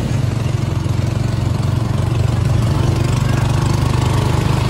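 Motorcycle engine of a tricycle running steadily as it carries passengers, a continuous low throb heard from inside the sidecar.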